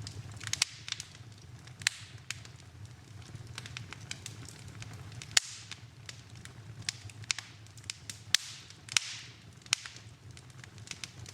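Wood fire burning in a fireplace, crackling with irregular sharp pops over a low steady rumble; the loudest pops come about five seconds in and again near eight seconds.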